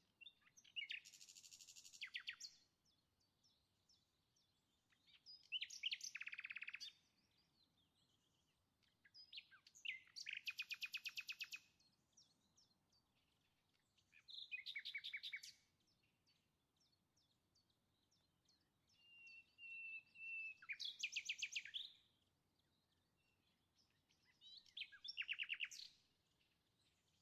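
A songbird singing short phrases of rapid high trilled notes, six phrases a few seconds apart, over an otherwise near-silent background.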